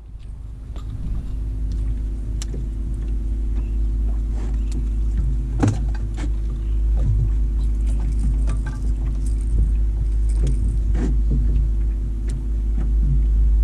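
Boat motor running steadily with a low hum, wind rumbling on the microphone, and scattered light clicks and knocks.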